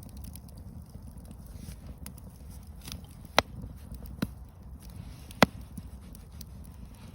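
Campfire burning, with a low steady rumble and light crackling broken by three sharp pops of the burning wood, the loudest about five and a half seconds in.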